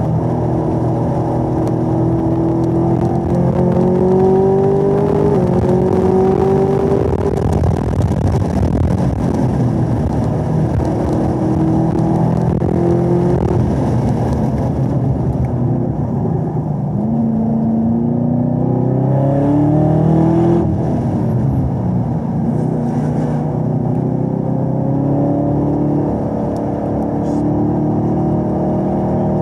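2017 Chevrolet Camaro ZL1's supercharged 6.2-litre V8 running hard on track, its pitch climbing through the revs and dropping at each shift of the ten-speed automatic. It swings down sharply about twenty seconds in as the car brakes and downshifts for a corner, then climbs again.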